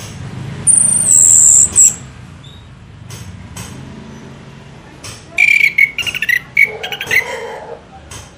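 Songbird calls: a loud, high, thin whistle held for about a second near the start, then a quick run of sharp chirps and trills in the second half.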